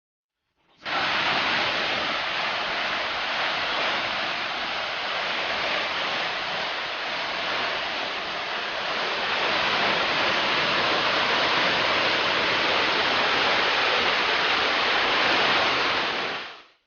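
Waterfall rushing: a steady wash of falling water that starts abruptly about a second in and cuts off near the end.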